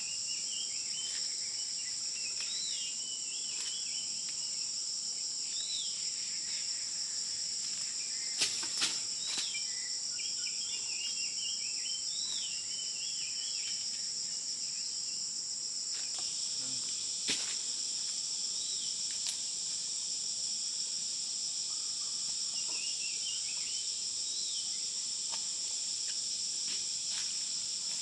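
Steady high-pitched drone of an insect chorus, with short chirping bird calls repeating over it and a few sharp clicks, two close together about a third of the way in and one a little past halfway.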